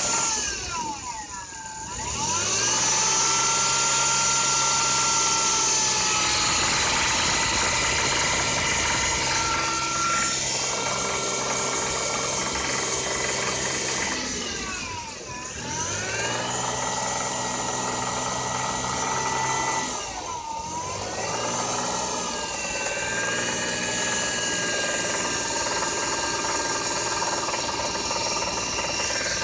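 Toyota 1JZ-GE inline-six engine running steadily, its note dipping and recovering three times. The owner says this engine knocks on a cold start and at around 3000 rpm but not at idle, and puts it down to a spun bearing.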